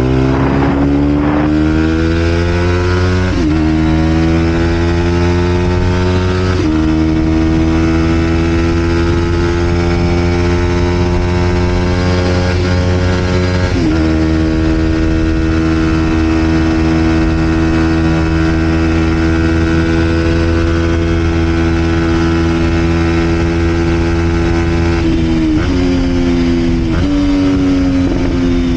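Vent Derapage 125 four-stroke motorcycle engine through a full Scalvini exhaust, riding on the road. The revs climb and fall away at each upshift, the engine holds a steady pitch while cruising for a while, and then goes through several quick changes of pitch near the end as it changes down.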